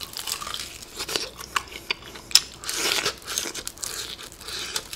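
Crispy fried chicken being bitten into and chewed close to the microphone: irregular crisp crunches of the fried crust, the sharpest a little over two seconds in.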